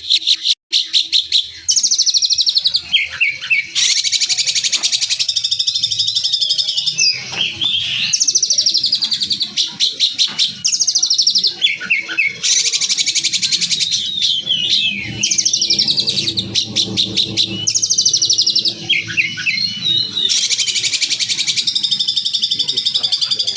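Songbird song for bird training: rough, rapid-fire bursts of fast, dense trills, each lasting a second or two, alternating with short sweeping whistled notes.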